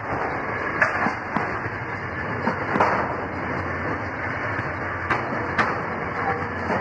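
Container freight train's wagons rolling past: a steady rumble of steel wheels on the rails, broken by irregular sharp clanks from the wagons and running gear.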